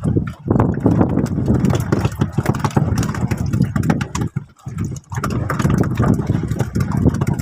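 Fishing boat's engine running at sea, a loud uneven rumble that dips briefly twice, about four and a half and five seconds in.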